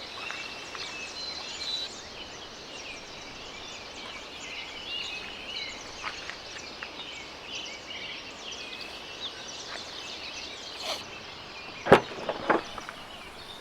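Many birds chirping and calling together in a steady morning chorus over light outdoor background noise. Two sharp knocks sound close together near the end.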